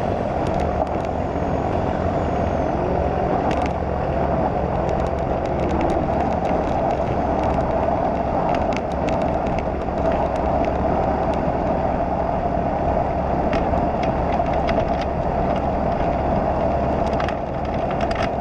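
Rotax 912 flat-four engine and propeller of a Slipstream Genesis ultralight droning steadily in flight, with a constant rush of airflow.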